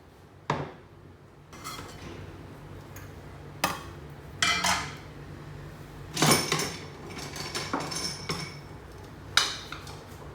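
Dishes and utensils being handled, clinking and knocking against each other in a handful of separate sharp strikes, with a faint steady low hum underneath.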